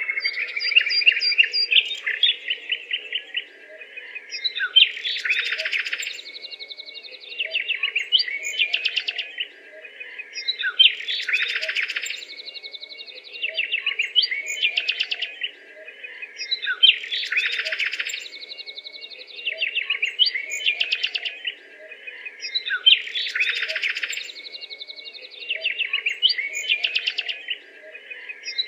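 Kookaburra calls: chuckling chatter that builds to a loud, rapid cackle, repeating about every six seconds.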